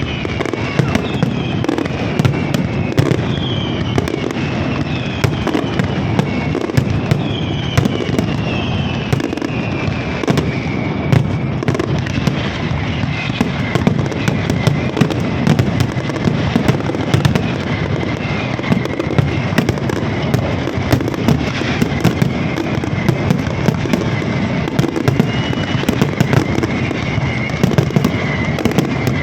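Fireworks going off continuously in a dense barrage of crackles and pops, with several whistles falling in pitch in the first half.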